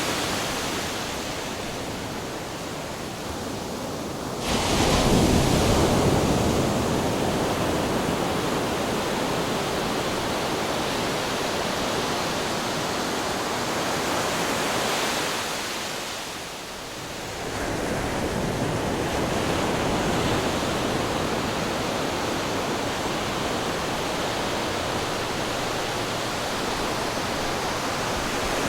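Ocean waves breaking on rocks: a continuous rush of surf, with a wave crashing in suddenly about four seconds in and another surge after a brief lull near the middle.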